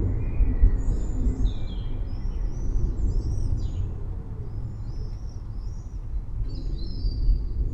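Several songbirds chirping and whistling in short, high calls throughout, over a continuous low, uneven rumble.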